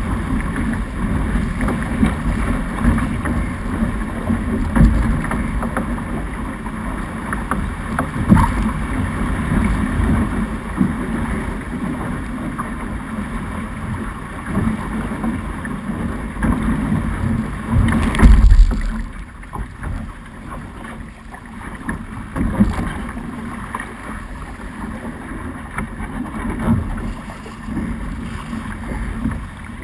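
Wind buffeting the onboard action camera's microphone and water rushing past the hull of a Snipe racing dinghy under sail, in uneven gusts. A single loud burst comes about two-thirds of the way through, after which it is a little quieter.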